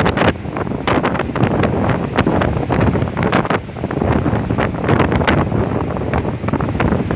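Strong gusty storm wind blowing straight onto the microphone: a loud, continuous rush broken by many sharp crackles and pops as the gusts buffet the mic.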